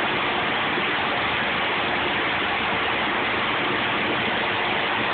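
Steady rush of liquid waste gushing out of a large truck's discharge, with a faint steady hum underneath.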